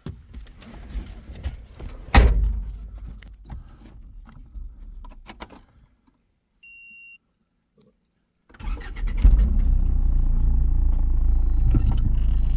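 Scattered knocking and clatter with one loud thump about two seconds in, then a brief electronic beep. From about nine seconds in, a vehicle engine runs steadily and loudly.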